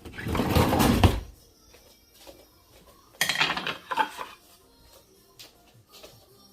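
Two bursts of knocking and rustling, each about a second long, near the start and about three seconds in: objects being handled and set down.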